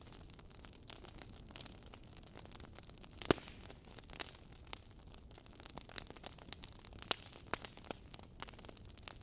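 Wood fire of burning logs in a fireplace, crackling with a low steady hiss and frequent irregular pops and snaps; the loudest pop comes about three seconds in.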